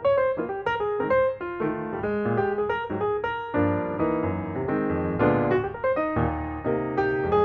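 Background music: a piano playing a quick run of notes.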